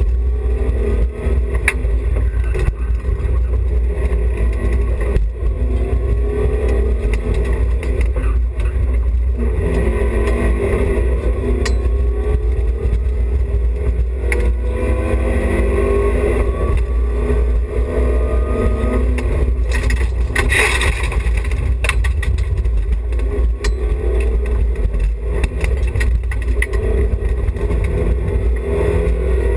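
The BMW E30 316i's four-cylinder engine revs hard over and over, its pitch climbing and dropping as it is worked between first and second gear, over a constant heavy rumble. Sharp clicks are scattered throughout, and a brief hissing burst comes about two-thirds of the way through.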